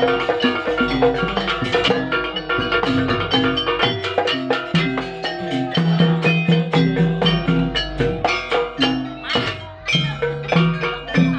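Live band music, busy with quick struck percussion and drums over a pitched bass line.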